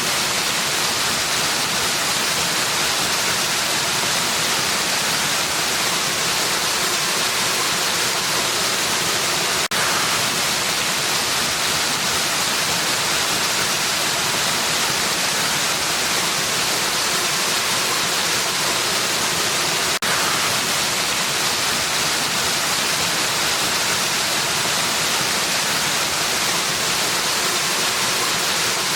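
Waterfall rushing in a steady, even hiss, with a brief dip in level twice, about ten seconds apart.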